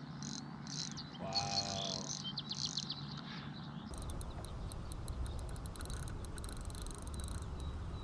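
Birds chirping, with a short call and a quick run of high ticks in the first half. About halfway through this gives way to faint, sparse clicks over a low rumble.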